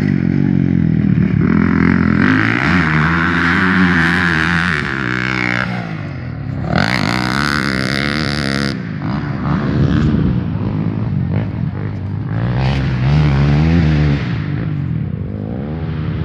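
Motocross motorcycle engines revving up and down over and over as the bikes race. About seven seconds in there is a louder, noisier rush lasting about two seconds.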